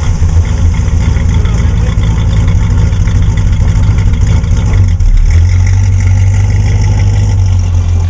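The 1969 Oldsmobile 442's 400 cubic-inch V8 running, loud and steady, with a fuller, deeper note setting in about five seconds in.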